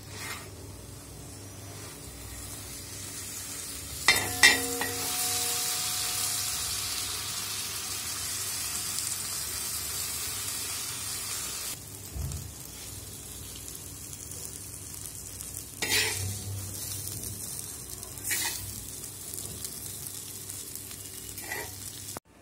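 Paratha frying on a hot griddle (tawa) with a steady sizzle, louder from about four seconds in until about twelve seconds. A metal spatula clacks against the griddle a handful of times as the roll is cut.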